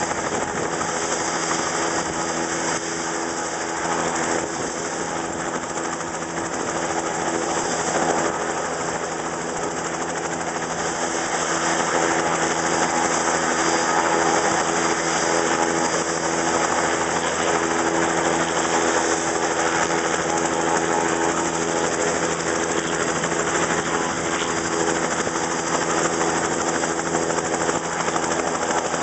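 Helicopter running on the ground with its rotor turning: a steady engine note over a constant hiss.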